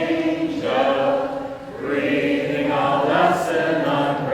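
A small group of singers singing a song together in held notes: two phrases with a short break about one and a half seconds in.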